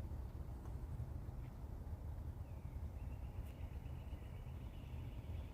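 Quiet outdoor background: a steady low rumble, with a faint thin high tone that comes in about halfway and holds steady.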